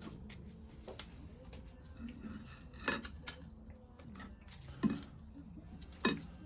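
Metal tools and parts clinking and tapping against metal: four sharp clinks a second or two apart, each with a brief ring, among fainter taps.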